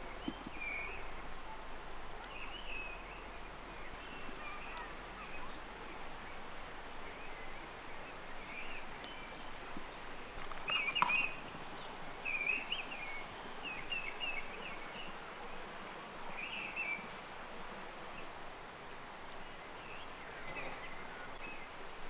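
Outdoor ambience of small birds chirping in short scattered calls over a steady background hiss, with a single sharp click about eleven seconds in.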